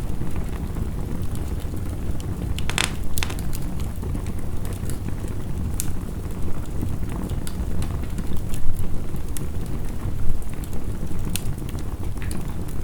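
Wood fire crackling with scattered sharp pops, one of them louder about three seconds in, over a steady dense rush of heavy rain.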